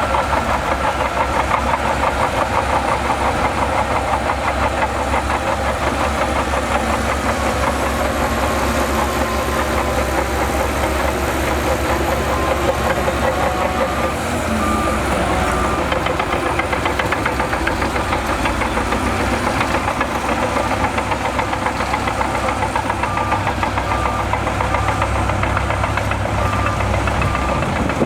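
Heavy diesel earthmoving machinery running steadily, its engine making a dense, rapid pulsing. About halfway through, a reversing alarm starts beeping at a steady rate.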